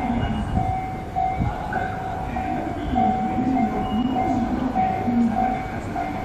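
Electric commuter train running, with a steady high whine that breaks off briefly at short intervals and a lower tone that rises and falls again and again.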